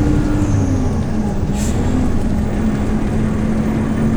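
Hyundai New Super Aero City CNG bus engine heard from inside the bus, its note falling about a second in and then running steadily. A brief short hiss of air about one and a half seconds in.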